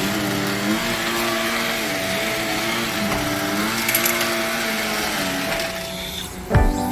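Carpet-cleaning suction motor running over old nylon carpet, a steady hiss with a motor hum whose pitch rises and falls about once a second as it is worked back and forth; it dies away about six seconds in and acoustic guitar music starts.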